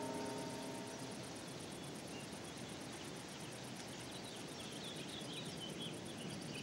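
Background music with sustained tones fading out in the first second, then faint outdoor ambience with scattered short, high bird chirps.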